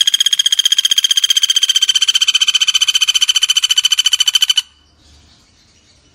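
Common flameback woodpecker (pelatuk bawang) giving a long, fast, even rattling trill that stops abruptly about four and a half seconds in, followed by faint scattered chirps.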